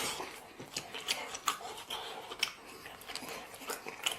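Close-up eating sounds: chewing with irregular small clicks and crackles, a sharper click at the start.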